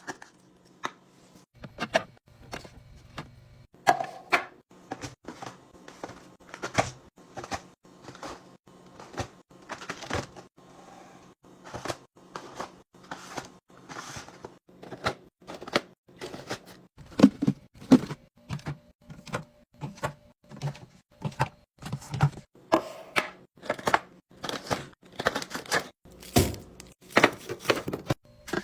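Objects being handled and set down, heard as a run of irregular taps, clicks and knocks about one or two a second, with a few louder knocks in the second half.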